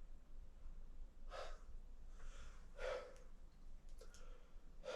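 A man breathing hard: three or four heavy, noisy breaths a second or so apart, as he catches his breath after exertion.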